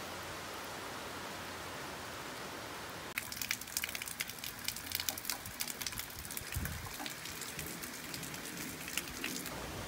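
Heavy rain falling in a steady hiss. About three seconds in it changes to a close, dense patter of individual raindrops hitting hard and wet surfaces nearby. Near the end it returns to a steady hiss.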